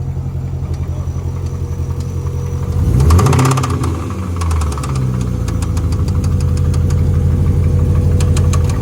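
Chevrolet C6 Corvette V8 running with a regular knock. The engine is revved briefly about three seconds in and then settles again, the knocking going on throughout, which the owner takes for rod knock.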